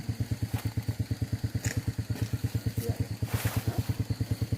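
Engine idling steadily with an even, fast pulsing beat of about a dozen pulses a second. A couple of short ticks can be heard over it.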